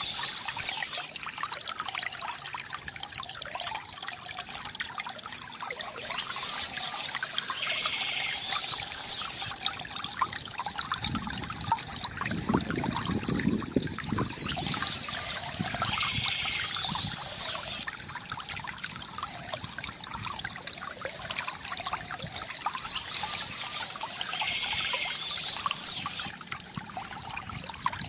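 Stream water trickling and splashing steadily, with a deeper gurgle about halfway through. Birds sing over it in short bursts that come back about every eight seconds.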